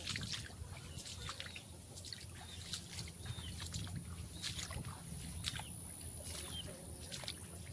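Footsteps sloshing and splashing through waterlogged grass and shallow floodwater, an irregular run of short wet splashes.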